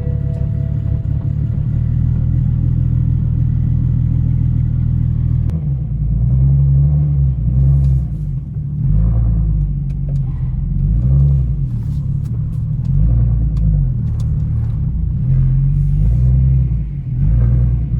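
Single-turbo BMW 335i engine and exhaust on the road, heard as a loud low drone. After about five seconds the engine note starts rising and falling over and over, as the revs climb and drop.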